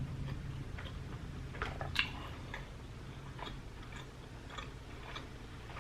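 Close-miked chewing while eating: soft, scattered wet mouth clicks and smacks over a faint steady low hum.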